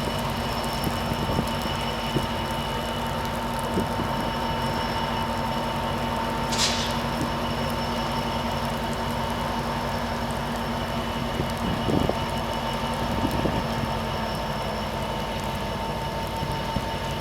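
EMD F59PHI diesel-electric locomotive running with an Amtrak San Joaquin passenger train, a steady hum with several held tones. A brief high squeak about seven seconds in, and a couple of knocks about twelve seconds in.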